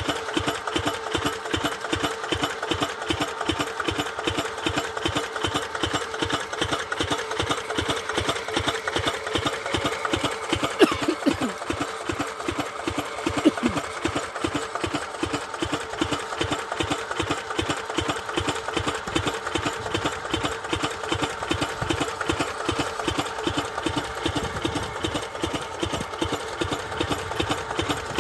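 A 10 hp diesel water-pump engine running steadily with an even, rapid firing beat. Two brief sharp clicks cut in near the middle.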